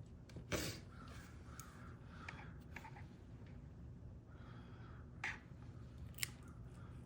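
Small metal clicks and light scraping of a key being worked in a freshly re-pinned 1959 Mercury ignition lock cylinder as it is tested, with a louder click about half a second in, another just after five seconds and a sharp tick near six seconds.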